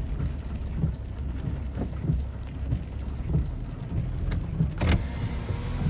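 A car driving, heard from inside the cabin: a steady low road and engine rumble with scattered light hits of rain on the car, and one sharp knock near the end.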